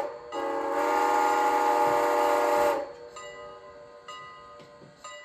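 Multi-note train whistle from a model locomotive's sound system, blown in one long blast of about two and a half seconds as the train departs. After it come a few fainter ringing strikes about a second apart.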